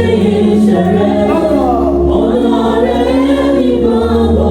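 Church congregation singing a hymn together in chorus: many voices holding long notes over a steady low bass.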